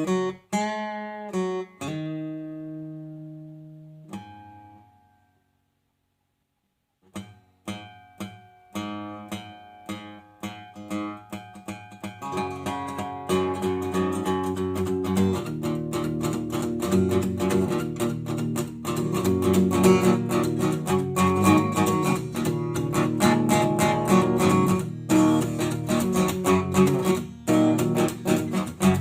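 Acoustic guitar played solo: picked notes, then a chord left to ring and fade away into a few seconds of silence. Picking starts again and builds into fuller strumming from about halfway.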